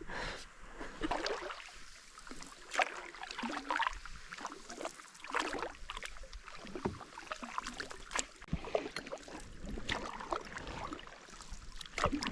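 Canoe being paddled: scattered, irregular paddle splashes and light knocks against the hull over a faint water hiss.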